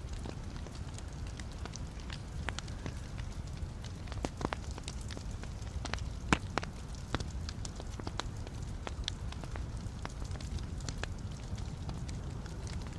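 Log fire in a fireplace crackling: a steady low rumble of flames with scattered sharp pops and snaps, the loudest about six seconds in.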